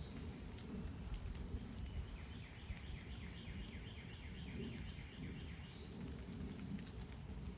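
A songbird singing a rapid trill, about seven short down-slurred notes a second for about three seconds, over a steady low outdoor rumble.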